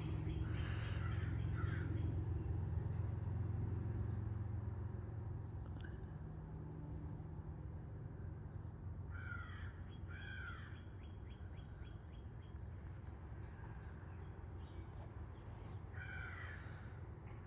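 A crow cawing a few times, twice about nine to eleven seconds in and once more near the end, over a steady high pulsing insect trill. A low hum in the first few seconds fades out.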